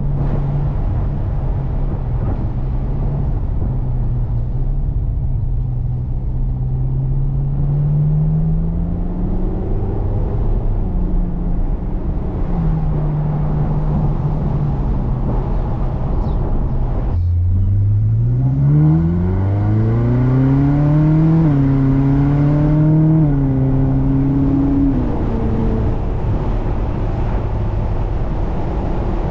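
Ferrari California's V8 engine heard from inside the cabin over steady road noise, cruising with a gentle rise in revs. About two-thirds of the way in the sound briefly drops away, then the engine pulls hard with sharply rising pitch, shifts up with a step down in pitch, and eases off near the end.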